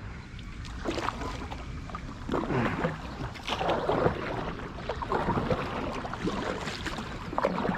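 Kayak paddle strokes dipping and splashing in river water, one surge of splashing every second or so.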